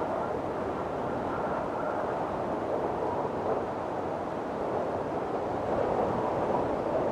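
Windstorm wind blowing hard and steadily, a rushing noise with a faint high whistle in it, swelling a little near the end.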